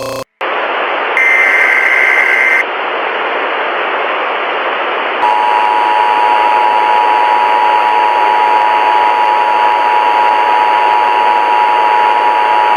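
Steady radio-style static hiss, with a short high beep about a second in and, from about five seconds in, a long unbroken lower beep over the static.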